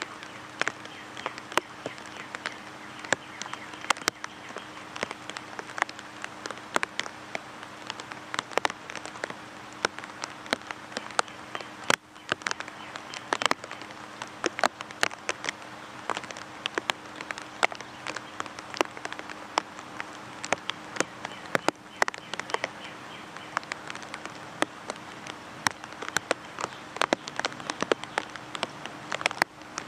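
Steady rain falling, with many sharp raindrop taps close by over an even patter, and a faint steady hum underneath.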